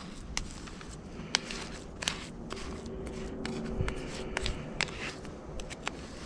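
Metal spoon stirring and scraping snow cream in a bowl, with irregular sharp clicks and scrapes several times a second.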